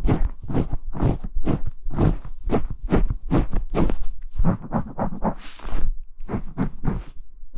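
Bristle brush rubbing and scratching over a binaural ASMR microphone in quick rhythmic strokes, about two to three a second, with one longer, hissier sweep a little past halfway.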